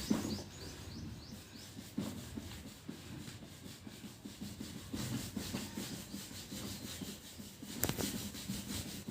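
Irregular rubbing and scrubbing on a plastic toy car as it is cleaned, with a sharp knock about eight seconds in.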